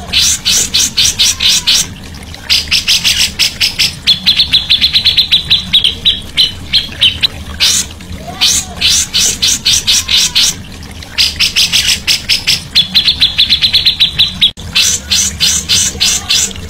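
A songbird chattering in rapid trains of short, high notes, about eight a second, in bursts of one to three seconds with short pauses between. A faint steady low hum runs underneath.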